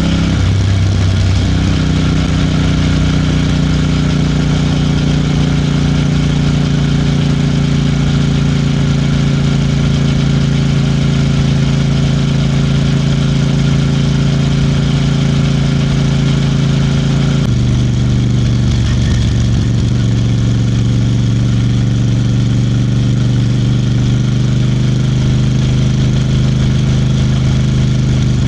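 Royal Enfield Bear 650's 648 cc parallel-twin engine running at a steady cruising speed on the move. The engine note rises shortly after the start and drops suddenly about two-thirds of the way through, then holds steady.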